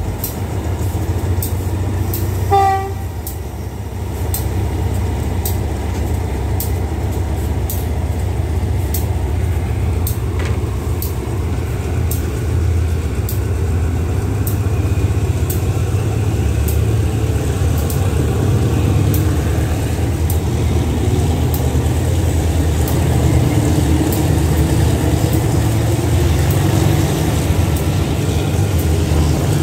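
Diesel passenger train rumbling steadily as it rolls slowly past on the next track, with light regular clicking of wheels on rail joints. A short train horn toot sounds about two and a half seconds in.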